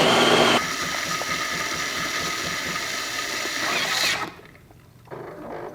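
Jura E8 super-automatic espresso machine's built-in burr grinder grinding beans for a shot. It runs for about four seconds and then stops, followed by a brief, quieter mechanical sound from the brew unit near the end.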